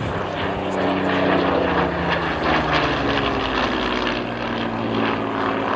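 Hawker Hurricane Mk II's Rolls-Royce Merlin V12 engine flying past, its note falling in pitch as it goes by.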